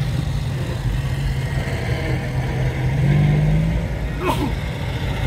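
Vintage cars driving slowly past at low revs, a steady engine hum; one engine note rises and gets louder about three seconds in as a car passes close. A brief high-pitched sound near the end.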